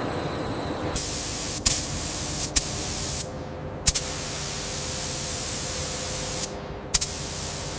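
A steady hiss that comes up about a second in and holds, with a few sharp clicks scattered through it.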